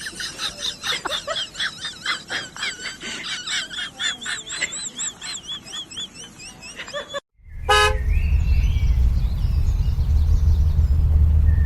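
Quick, high, wavering chirp-like calls repeating for about seven seconds. After a sudden cut comes a short horn toot, then the steady low running noise of a vehicle.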